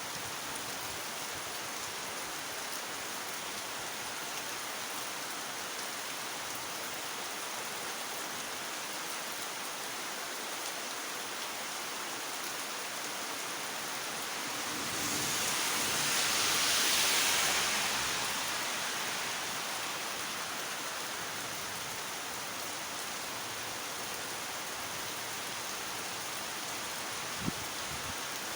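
Heavy rain falling steadily. About halfway through, a louder hiss swells up over a few seconds and fades away again, and a single short click comes near the end.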